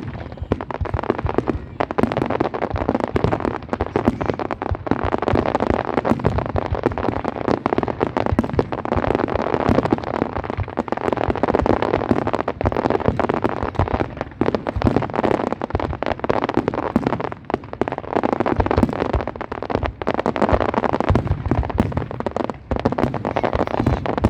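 Fireworks display in a dense barrage: rapid bangs and crackling shells going off one on top of another without a break.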